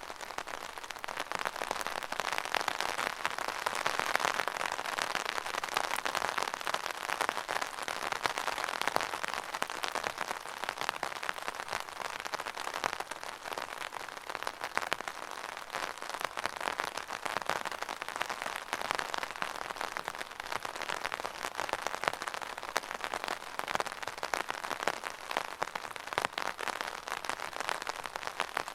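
Steady rain falling and pattering on a surface, a dense even hiss of many small drops.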